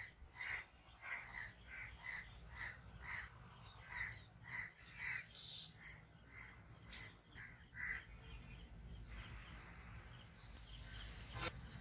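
A bird calling over and over in short calls, about two a second, stopping about eight seconds in; after that only a faint steady hiss.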